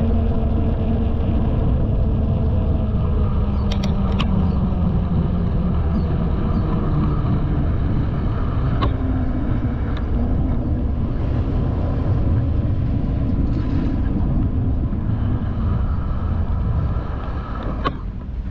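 A bicycle being ridden fast: a steady rumble of wind and tyre noise, with a few sharp clicks from the bike.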